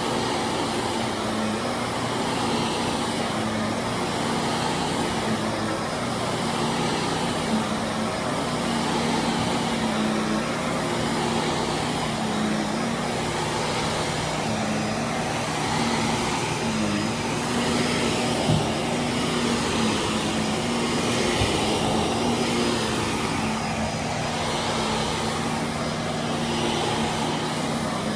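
Electric carpet-cleaning machine motor running steadily over carpet, its low hum wavering slightly as it is worked back and forth, over a steady hiss of a power washer in the background.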